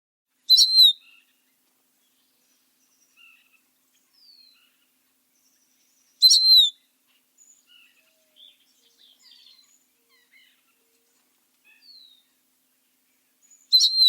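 Birds calling: a loud, short, high call three times, about six to seven seconds apart, with faint chirps and short falling whistles in between.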